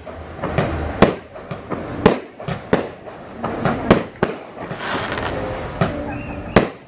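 Fireworks display: a string of sharp bangs at irregular intervals, about ten in all, with a stretch of dense crackling between them about two-thirds of the way through.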